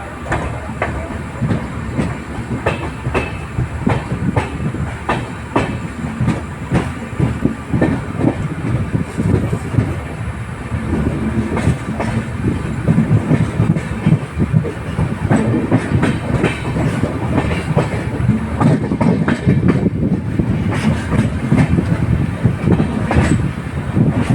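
Moving passenger train with LHB coaches: wheels clattering and knocking over the rail joints over a steady low rumble.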